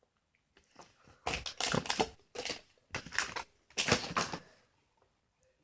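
Crinkly packaging being handled or crumpled, in four short rustling bursts, typical of the foil wrapper of an opened trading-card booster pack.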